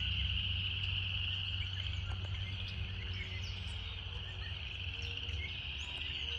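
Cicadas singing in a steady, unbroken high buzz, with scattered faint bird chirps above it and a low rumble underneath.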